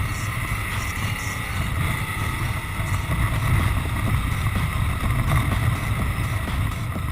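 Ducati Multistrada motorcycle on the move, its engine running under heavy wind rush and buffeting on the camera's microphone.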